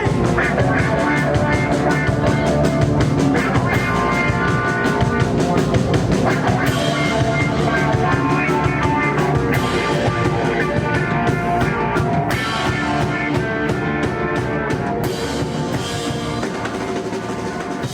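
Rock music with a full drum kit and guitars playing.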